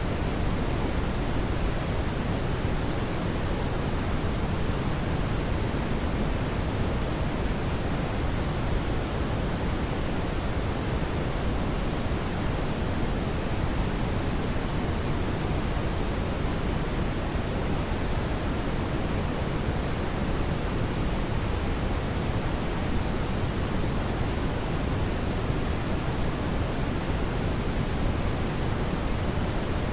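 Steady brown noise: an even, unbroken rushing hiss weighted toward the low end, with no change or events.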